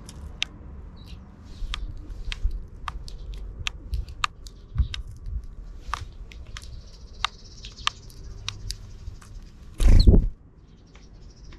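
Sparrows at a feeding spot: many quick, irregular sharp ticks, like pecking at seed, with some faint high chirping. About ten seconds in comes a loud brief whoosh.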